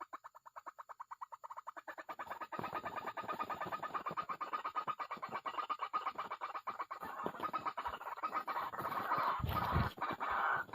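White-breasted waterhen calls: a rapid, steady run of repeated harsh notes, several a second, that grows louder and denser from about two seconds in. A low thump comes about nine and a half seconds in.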